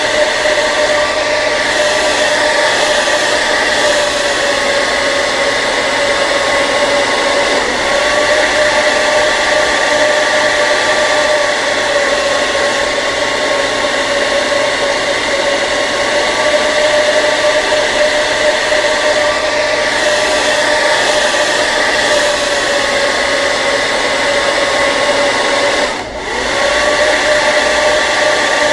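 Hair dryer running steadily: a rushing blow of air with a steady motor whine. Near the end it dips briefly in level and pitch, then comes straight back up.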